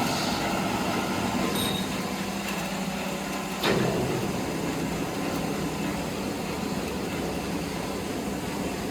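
Wood-processing machinery running steadily with a low hum, a short knock about three and a half seconds in, after which the hum changes.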